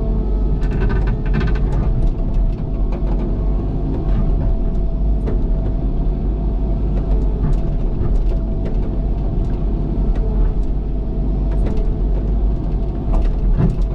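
Excavator's diesel engine running steadily under working load, with a steady whine on top and scattered small clicks and knocks as the bucket digs at a loose rock.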